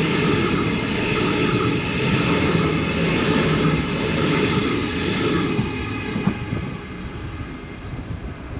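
Sydney Trains B-set (Waratah Series 2) electric suburban train passing close by: wheel and rail noise with a steady motor whine. It is loud for the first five seconds or so, then fades away over the rest.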